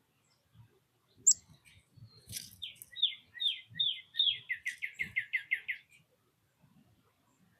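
A songbird sings after a single sharp high chip. Its song is a series of whistled notes that each slur downward, slow at first and then speeding up into a rapid trill before stopping. Faint low knocks run underneath.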